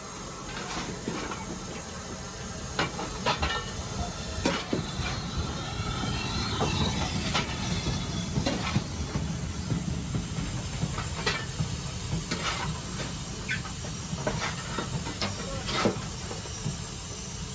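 A 4MT steam locomotive and its train passing close by: steam hissing and a steady rumble, with wheels clicking over the rail joints, growing louder over the first several seconds.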